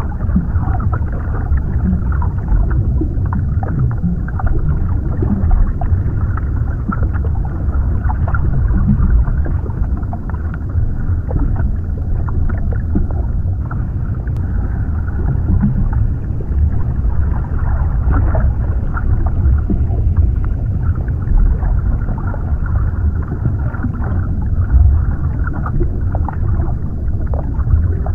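Underwater ambience: a steady, deep rumbling wash of water, with faint scattered crackles above it.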